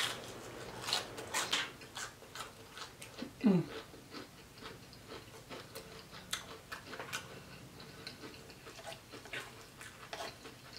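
A person biting and chewing a crispy fried fish fillet close to the microphone: crunchy crackles with the first bites, then softer, sparser chewing clicks, and a short low hum from the eater about three and a half seconds in.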